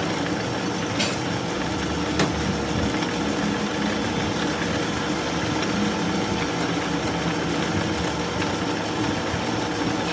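A machine running steadily with an even hum, with a couple of faint clicks in the first few seconds.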